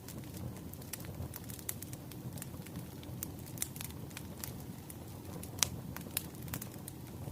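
Wood fire crackling: irregular sharp pops over a low steady rumble of flames, with one louder pop a little past halfway.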